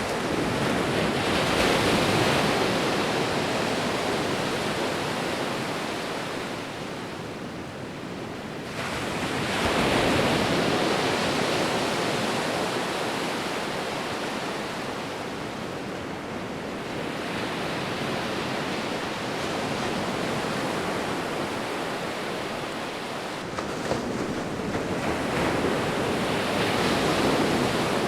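Sea waves breaking and washing on the shore: a steady rush of surf that swells and fades, with a new wave surging in about every seven or eight seconds.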